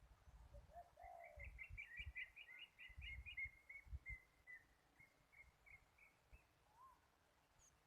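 A bird singing faintly: a quick run of repeated high chirping notes lasting several seconds, then a few lower arched notes near the end, over low wind rumble on the microphone.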